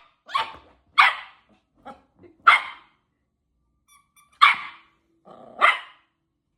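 Yorkshire terrier barking in short single barks: five loud ones spaced one to two seconds apart, with a couple of softer barks between.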